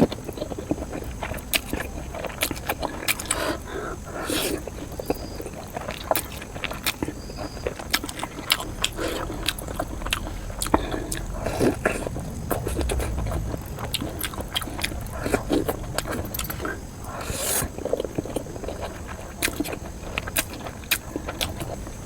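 Close-miked eating sounds: irregular wet clicks and smacks of chewing, with no talking.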